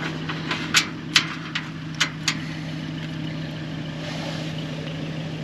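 A few sharp metal clicks from a ratchet and socket working a spark plug loose, over a steady low hum.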